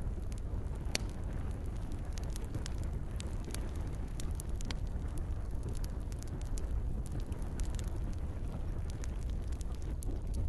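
Campfire crackling, with frequent sharp pops and snaps scattered irregularly over a steady low rumble of burning wood.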